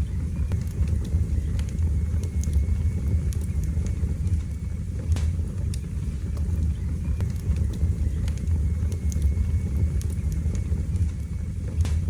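Wood fire crackling in a fireplace: a steady low rumble with scattered sharp pops and snaps, the strongest about five seconds in and near the end.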